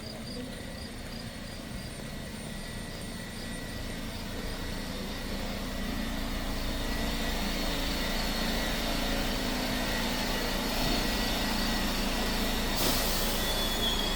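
A heavy vehicle draws near, its sound growing louder over several seconds and then holding steady, with a short burst of air hiss near the end.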